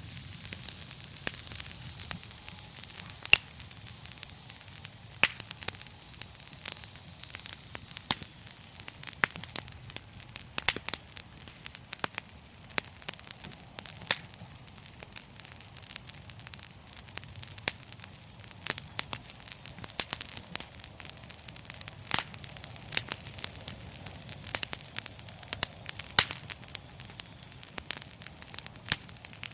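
Fireplace fire crackling: frequent, irregular sharp pops and snaps over a steady hiss.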